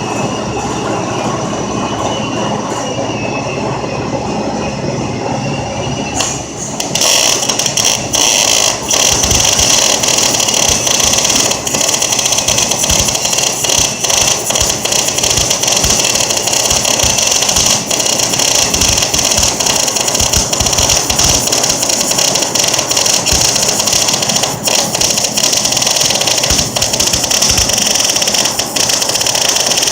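Millermatic MIG welder arc crackling and sizzling as a bead is laid, a dense hiss full of small pops. It is quieter for the first six or seven seconds, then gets louder and stays steady. The owner calls the welder broken.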